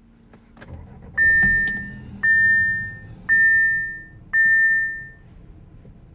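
A 2018 Audi A5's warning chime sounding four times, about a second apart, each a single high tone that fades out. Two sharp clicks come just before it.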